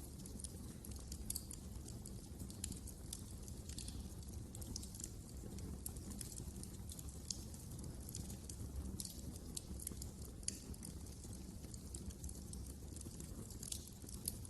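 Wood fire burning in a fireplace, with a low steady rumble and many small irregular crackles and pops.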